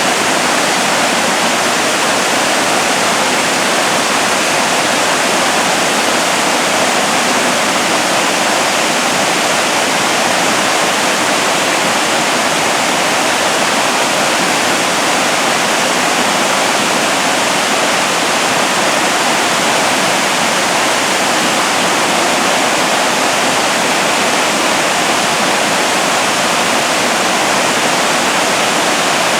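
Freedom Falls waterfall: a steady, loud rush of falling water that does not change.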